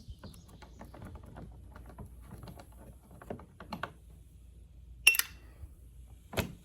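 Irregular light clicking and rattling of tools or parts being handled under a car, then two sharp clacks about five and six and a half seconds in.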